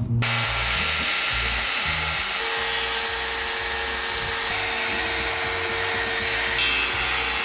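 Power drill running steadily, with a steady whine joining about two seconds in, over background music with a beat.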